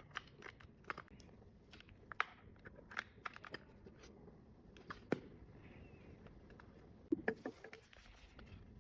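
Wireless earbud packaging being handled while unboxed: scattered small clicks, taps and light crinkling at an irregular pace, with a couple of sharper clicks about five and seven seconds in.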